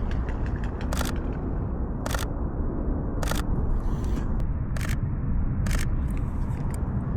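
Sony A6400 mirrorless camera's shutter firing single shots, about five clear clicks roughly a second apart.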